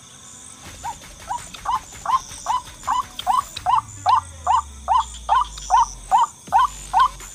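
White-breasted waterhen (ruak-ruak) calling: a steady run of short, rising notes, about two and a half a second, starting about a second in and growing louder.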